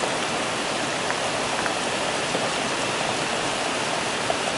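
Rain falling steadily during a thunderstorm: an even hiss with a few sharper drop ticks.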